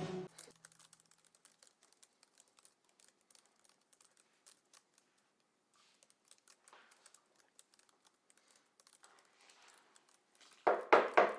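Faint, rapid clicking of typing on a keyboard, then a few loud knocks near the end, as on a door.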